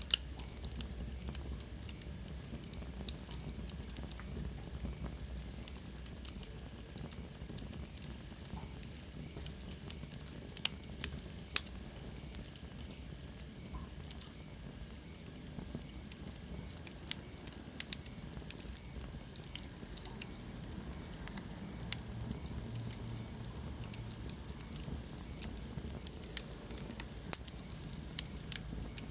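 Wood fire crackling in a fireplace: irregular sharp pops and snaps over a steady hiss. A faint high whistle slides down in pitch about ten seconds in.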